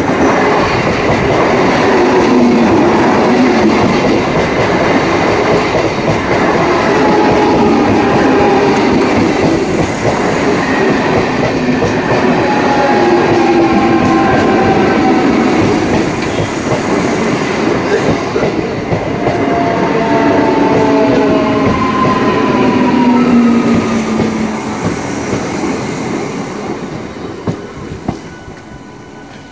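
A train running loud and close, with a dense rumbling rush and short squealing tones from the wheels on the rails. It fades over the last few seconds.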